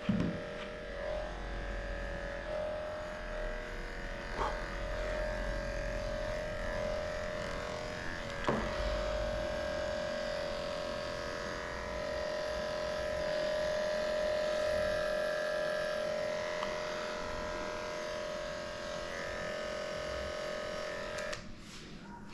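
Electric dog grooming clippers running with a steady hum, with a faint click or two, and then switching off near the end.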